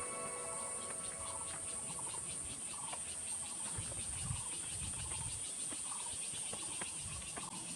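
Insects chirring: a steady high-pitched buzz with fast regular pulsing. Short lower chirps come about once a second.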